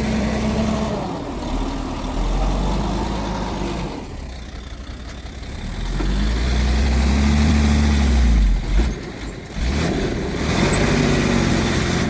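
Mitsubishi G2 bulldozer's diesel engine working, its pitch and loudness rising and falling as it takes load. It is loudest about two-thirds of the way in and then drops off briefly.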